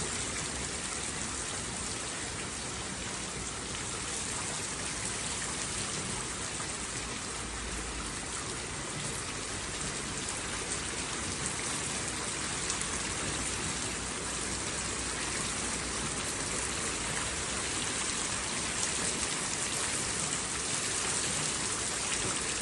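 Steady rain falling, an even hiss of dense raindrops without any thunder.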